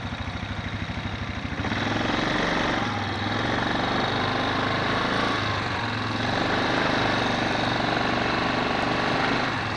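ATV engine running, getting louder about two seconds in and holding there, with a rushing hiss over it.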